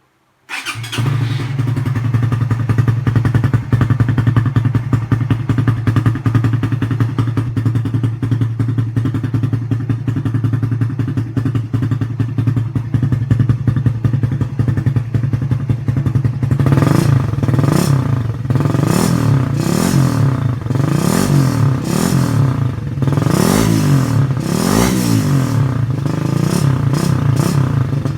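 Suzuki Raider R150 Fi single-cylinder engine breathing through a stainless aftermarket canister on the stock header starts about half a second in and idles steadily. About two-thirds of the way through it is blipped on the throttle again and again, revving up and dropping back, with no popping on the overrun.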